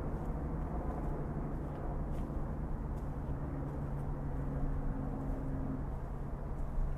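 Steady low drone of a distant motor vehicle engine, with a pitched hum, and faint footsteps on the path.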